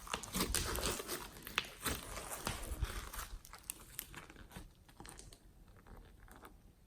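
Glossy slime being worked by hand, a dense run of small wet clicks and crackles that thins out and fades over the second half.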